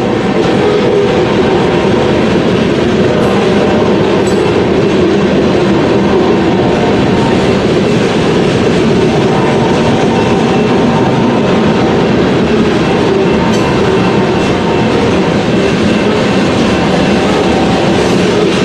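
A freight train rolling past at close range: a loud, steady rumble of cars on the rails that does not let up.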